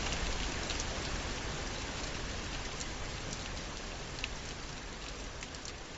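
Dekala ArkenStone Pro sound machine playing a rain nature sound through its speaker: an even hiss of rainfall with scattered drop ticks, slowly getting quieter.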